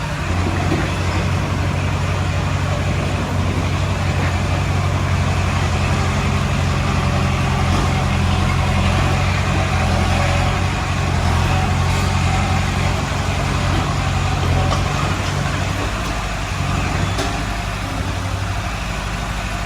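Heavy diesel engine running steadily under load, easing off a little for a few seconds near the end.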